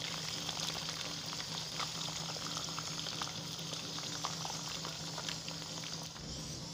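Liver pieces and onions sizzling and bubbling in hot oil in a wok, a steady hiss with many small crackles of spattering oil.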